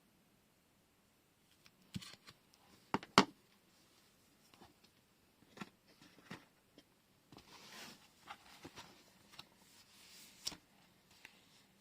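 Small rolls of washi tape and their packaging being handled on a desk: scattered sharp clicks and taps, the loudest two close together about three seconds in, with short rustles of paper or plastic.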